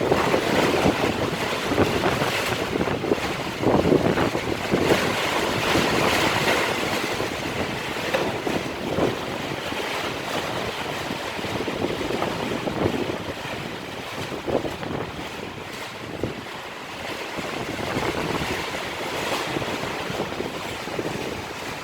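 Strong gusty wind blowing against building scaffolding, with wind buffeting the microphone. The gusts are strongest in the first several seconds, ease off in the middle and pick up again near the end.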